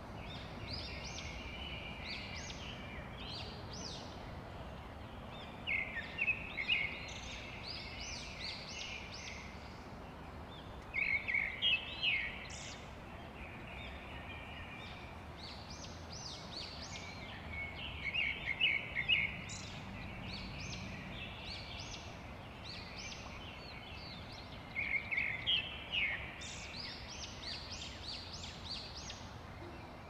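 Small birds singing and chirping in quick trilling bouts every few seconds, over a steady low background rumble.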